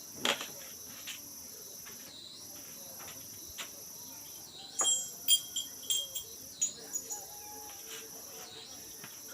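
Crickets chirring steadily in the background, with a knock near the start and a run of sharp metallic clinks and taps, loudest between about five and seven seconds in, as small steel gearbox parts are handled against the engine casing.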